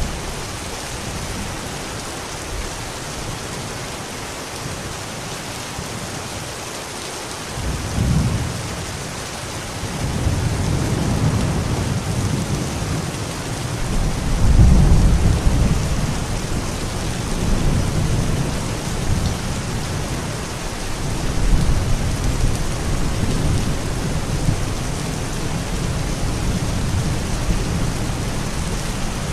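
Steady rain with thunder: a low rolling rumble comes in about a quarter of the way through, swells to its loudest around the middle and keeps rumbling under the rain to the end.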